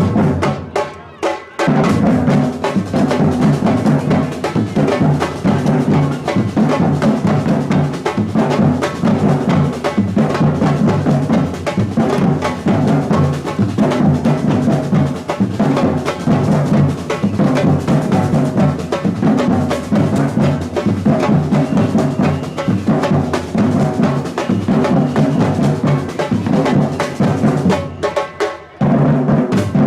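Batucada samba drum ensemble playing a fast, dense groove: deep surdo bass drums under rattling snare drums and sharp strokes. The drumming drops out briefly about a second in and again near the end.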